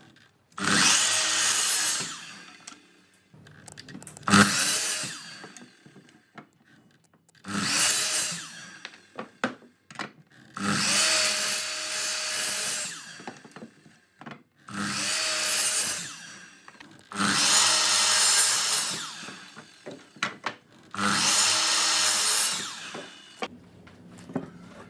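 A handheld power tool working wood in seven short bursts of one to two seconds each, its motor tone steady within each burst, with small knocks of wood and tool handling in the gaps between.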